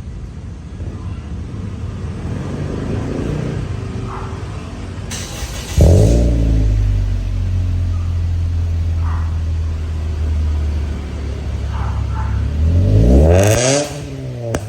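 Toyota Vios four-cylinder engine breathing through a Borla X-Pro cat-back exhaust and muffler. It runs at a low rumble, is revved sharply about six seconds in and held at a steady higher speed for about seven seconds, then climbs once more and drops back near the end.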